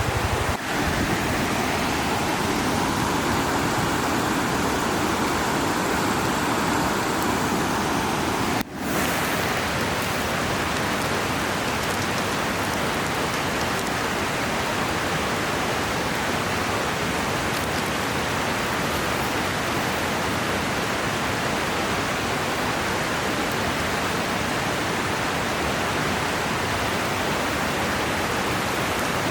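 River water rushing steadily, a loud even hiss. It drops out for an instant twice: about half a second in and just before nine seconds in.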